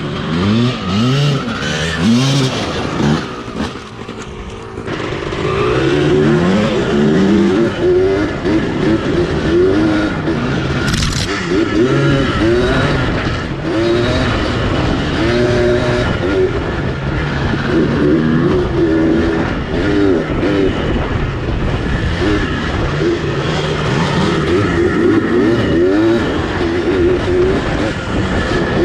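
Honda CR250 two-stroke engine in a custom quad, revving up and dropping back again and again while ridden, with a short lull about four seconds in.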